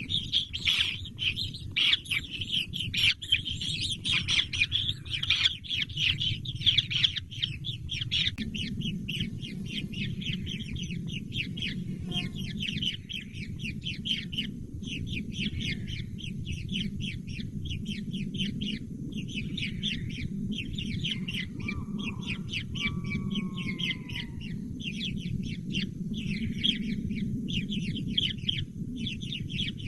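Bird chicks chirping, a dense, unbroken chorus of short, rapid, high-pitched calls, over a steady low hum.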